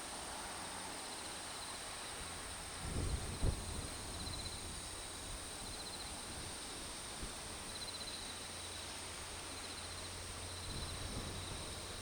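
Insects calling in a field: a steady high-pitched drone with a shorter pulsing trill repeating every couple of seconds, and a couple of low thumps about three seconds in.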